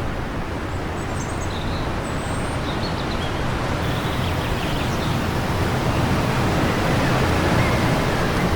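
Wind blowing steadily in a rush of noise, swelling a little near the end, with a few faint bird chirps in the first few seconds.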